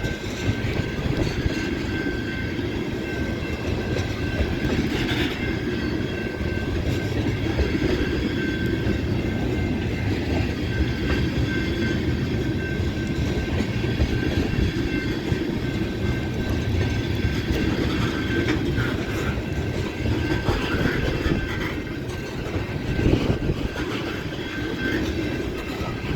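Cars of a long intermodal freight train rolling steadily past, a continuous rumble of steel wheels on the rails, with a faint steady high-pitched tone running through it.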